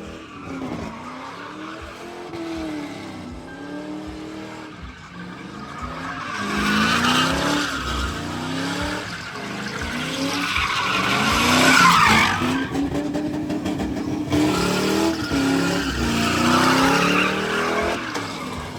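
Car engine revving up and down again and again during a burnout, with tyres spinning and squealing on the pavement. The tyre noise builds from about six seconds in and is loudest around the middle.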